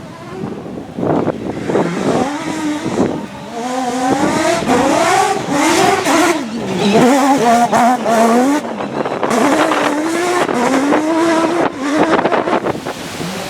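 Mazda rotary engine of the Proto 205 rally car running hard, its pitch climbing and dropping again and again as it revs through the gears and lifts off. It is faint at first and grows loud after a few seconds, as the car comes closer.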